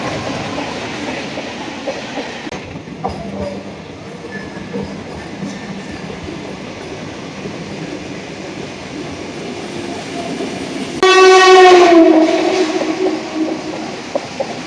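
Indian Railways train running through the station with a steady rumble and wheels clacking over the rail joints. About eleven seconds in a locomotive horn sounds loudly for about two seconds, its pitch dipping slightly as it goes.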